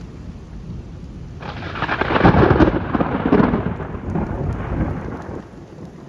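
Close thunderclap: a sudden crackling crack about a second and a half in, followed by heavy rumbling that fades away over a few seconds, over steady rain.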